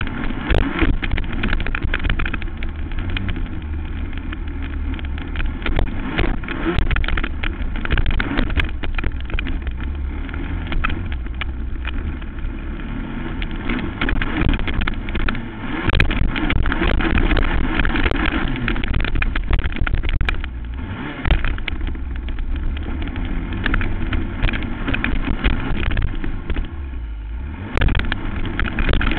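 Racing quad (ATV) engine running hard, with the throttle rising and falling and briefly easing off a few times. Wind buffeting and frequent short knocks run over it.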